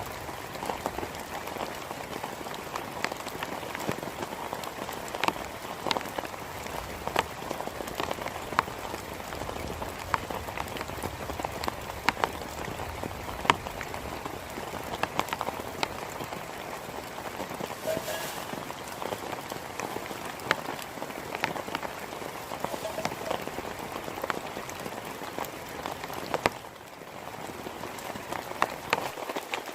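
Heavy rain falling steadily, with many sharp individual drops striking close by; it eases briefly near the end.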